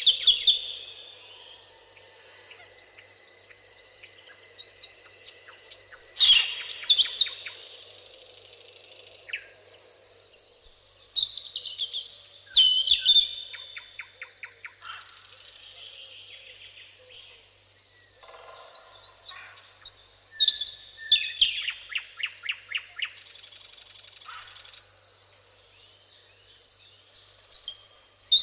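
Songbirds singing in bursts of chirps and rapid trills every few seconds, over a steady high insect trill.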